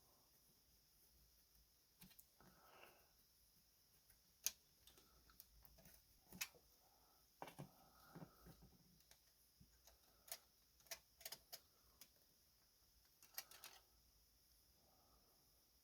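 Faint, scattered clicks and light taps from the parts of an antique Chicago typewriter being handled and worked, about a dozen irregular clicks with a few soft rustles between them.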